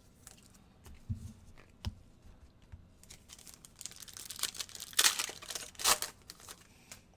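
Foil trading-card pack being torn open and its wrapper crinkled, loudest about five and six seconds in, after a few light taps.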